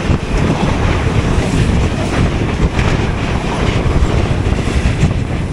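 Express train running on the rails, heard from aboard: a steady rumble of the coach with the wheels clattering over the rail joints.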